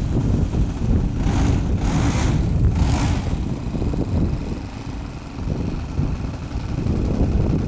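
Strong wind buffeting the microphone with a heavy, steady rumble. Three short rushing hisses come between about one and three seconds in.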